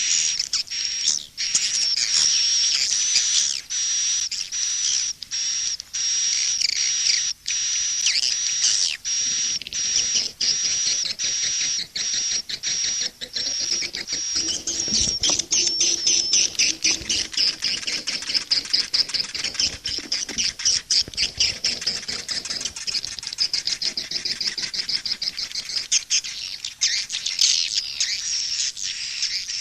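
Swiftlet call recording used to lure swiftlets to a nest house: a dense, unbroken stream of rapid high chirps and twitters from many swiftlets.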